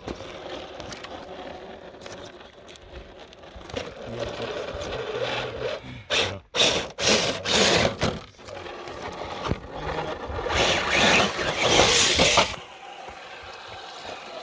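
1/10-scale Traxxas TRX-4 Sport RC crawler driving a rocky course, its small electric motor whirring as the tyres scrape and claw over rock and wood. It comes in bursts, loudest about six to eight seconds in and again from about ten and a half seconds, and cuts off suddenly near the end.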